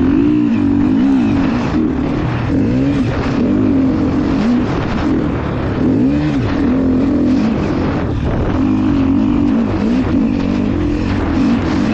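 KTM EXC 350 dirt bike engine being ridden hard, revving up and falling off again over and over, with its pitch rising and dropping about once a second as the throttle opens and shuts.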